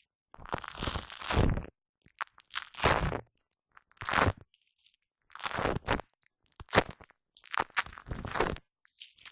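Shaving foam squished and rubbed directly on a Blue Yeti microphone. It gives a series of sticky, crackling bursts, each under a second or so, with silent gaps between them.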